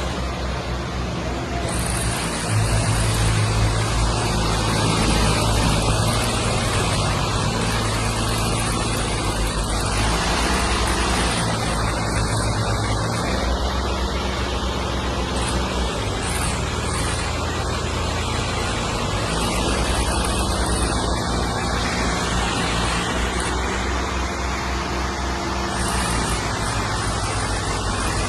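Heavy diesel engine running. It gets louder about two seconds in, and its speed shifts up and down several times.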